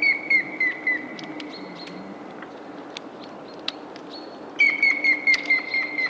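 Grey-headed woodpecker song: a run of clear whistled notes, about four or five a second and falling slightly in pitch, at the start and again about four and a half seconds in. Around it, melting lake ice makes sharp clicks and pings over a steady low hum.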